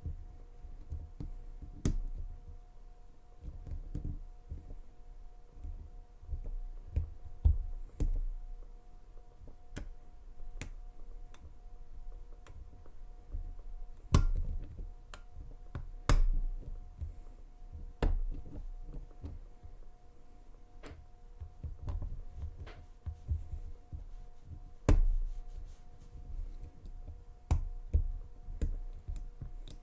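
Lane Security padlock being single pin picked: irregular small clicks and taps of the pick working the pins in the keyway, with a few sharper clicks and low handling knocks of the lock body.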